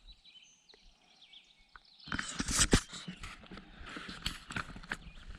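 Faint bird calls, then about two seconds in a sudden run of sharp knocks and clatter with rustling noise.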